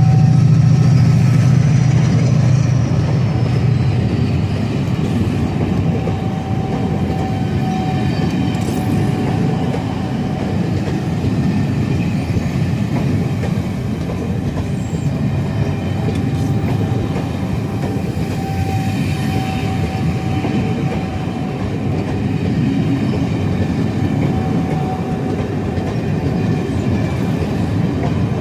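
Passenger coaches of a loco-hauled train rolling past close by: a steady rumble and clatter of wheels on the rails, with faint high wheel squeals now and then. A low drone is strong in the first few seconds and then fades.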